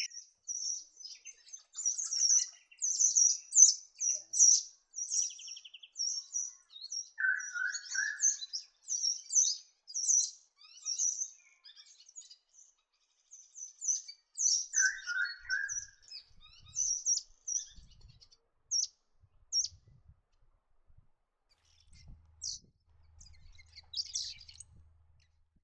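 Welcome swallows twittering: rapid, high-pitched chirps, dense for the first dozen seconds and then sparser. Two brief lower warbled phrases come about 7 and 15 seconds in.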